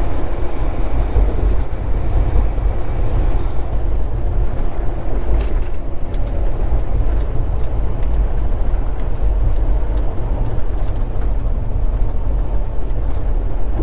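Steady low rumble of a Volvo 780 semi-truck cruising on the highway, heard from inside the cab: engine drone and road noise.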